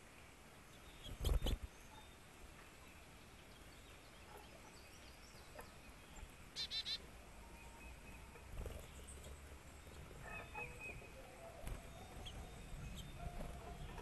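Birds at a backyard feeder: a short, rapid chirping call about halfway through and a few briefer calls later, over faint scattered clicks. A burst of low thumps about a second in is the loudest sound.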